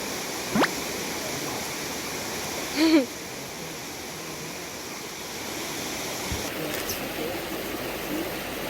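Valley stream water rushing steadily. About half a second in there is a quick rising squeak, and near three seconds a short, loud cry.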